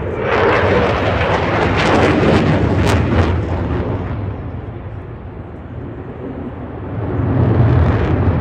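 Eurofighter Typhoon's twin EJ200 jet engines passing, a loud crackling rush of jet noise that eases off after about four seconds and swells again near the end.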